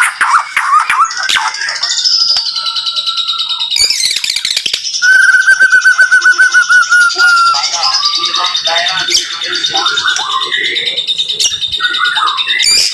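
White-rumped shama (murai batu) singing a dense, fast song of whistles, trills and chattering notes, with a long run of rapidly repeated notes in the middle: the rapid-fire 'tembakan' style that bird keepers prize.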